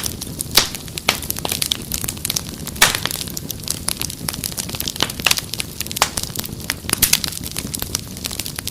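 Wood fire crackling, with sharp irregular pops and snaps over a low steady rush of flames.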